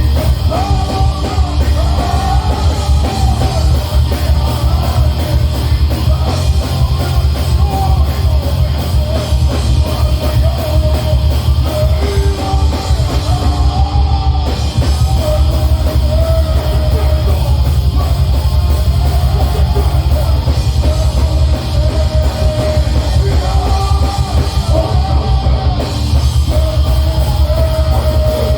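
Heavy metal band playing live: distorted guitars and heavy bass over fast, dense drumming, with yelled vocals, a loud and unbroken wall of sound.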